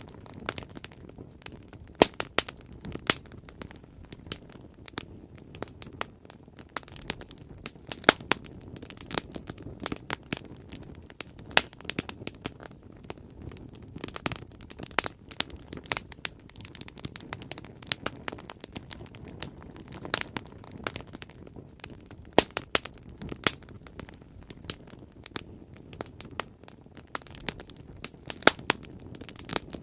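Bonfire crackling: irregular sharp pops and snaps of burning wood, several loud ones scattered through, over a steady low rush of the flames.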